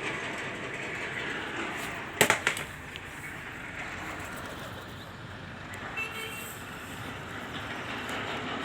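Steady outdoor urban traffic noise. A brief loud clatter comes about two seconds in, and a short faint tone about six seconds in.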